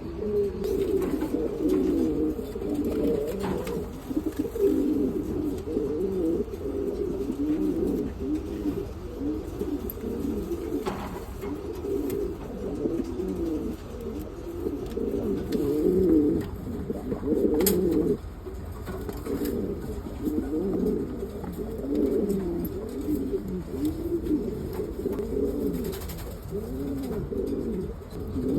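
Domestic pigeons cooing over and over, a continuous run of low, rolling coos that rise and fall.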